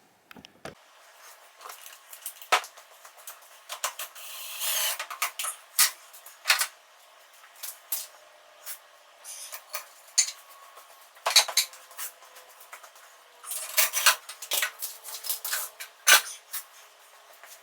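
Metal parts and hand tools clinking and knocking as they are handled, a series of sharp, irregular clicks and taps.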